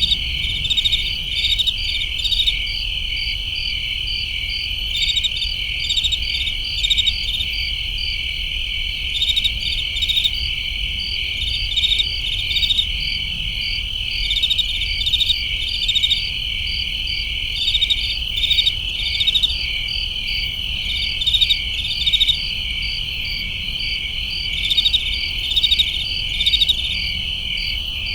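Night chorus of crickets: a steady high trill, with quick runs of sharper chirps on top that come in clusters every second or two.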